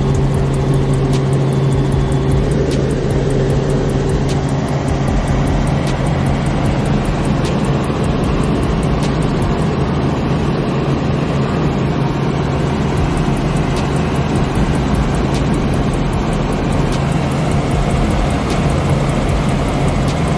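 Steady, loud engine drone with a strong constant low hum.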